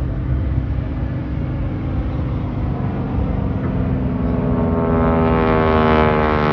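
North American Harvard's Pratt & Whitney radial engine and propeller in a display flypast: a low drone that swells over the last couple of seconds into a loud, buzzing note falling slightly in pitch as the aircraft passes.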